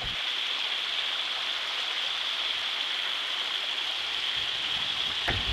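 Steady rushing of a fast-flowing stream running over small waterfalls.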